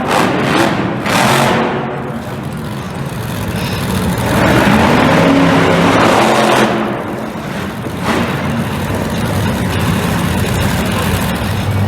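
Monster truck engine revving, the roar swelling to its loudest about four to seven seconds in and easing off after.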